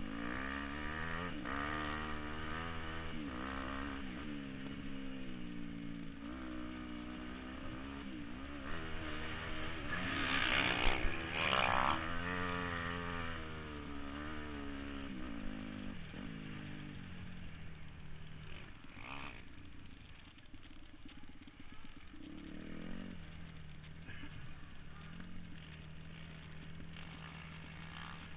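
Dirt bike engine revving hard, its pitch rising and falling again and again as it accelerates and shifts. The loudest, harshest stretch comes about ten to twelve seconds in. It then settles into a steadier, lower, quieter note for the rest.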